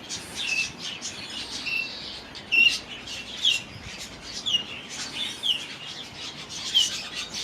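A flock of aviary budgerigars and cockatiels chirping: short, sharp chirps come one or two a second over a steady background of softer chatter.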